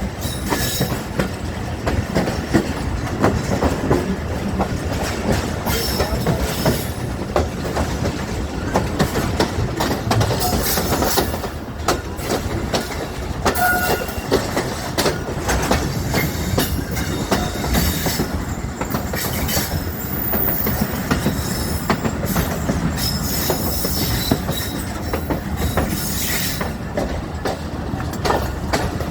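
Millat Express passenger coaches rolling along the track, their wheels clattering steadily over the rail joints, with a few brief high wheel squeals.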